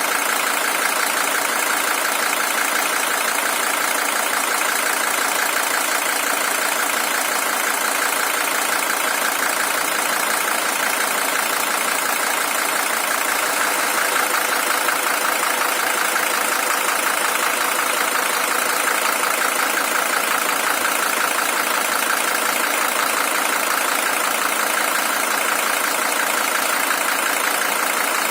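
Mercedes-Benz W123 300TD's OM617 five-cylinder diesel engine idling steadily with its diesel clatter, long warmed up. The engine is original, with 620,000 km on it.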